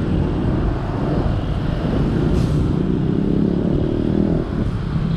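Road traffic: a motor vehicle engine running close by over a steady low rumble of wind and road noise.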